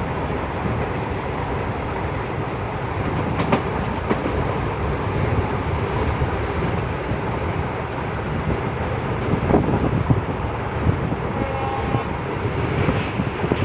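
Passenger train running on the rails: a steady rumble with a few sharp knocks.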